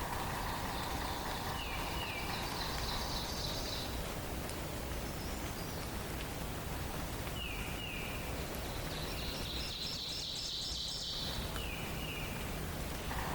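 Songbirds singing over a steady background hiss. A pair of quick downward chirps comes back about every five seconds, with higher, buzzy trills in between.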